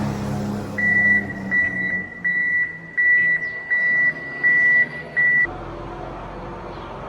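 Vehicle backup alarm beeping: seven high, even beeps at a steady pace over about four and a half seconds, over a low engine hum. The beeping stops suddenly a little after five seconds in.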